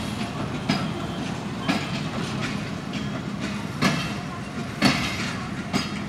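Passenger coaches of a departing train rolling past at low speed, the wheels knocking over the rail joints about once a second over a steady rumble.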